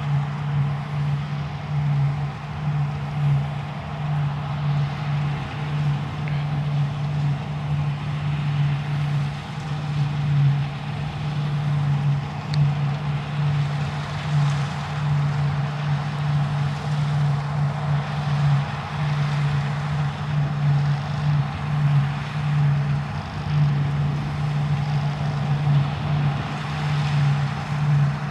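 Deutz-Fahr Topliner 4090 HTS combine harvester running steadily while cutting barley: a constant low engine drone with a broad rushing noise over it.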